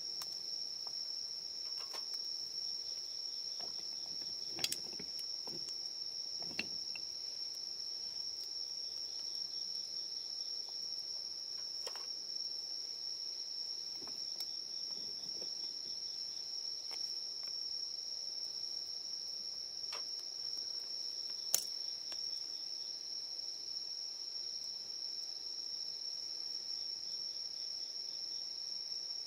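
Crickets trilling in one continuous, even high-pitched chorus, with a few sharp crackles from a wood campfire, the loudest about two-thirds of the way through.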